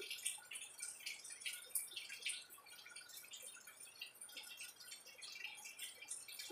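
Close chewing of crisp unripe green mango slices: many irregular, quick wet crunches and mouth clicks.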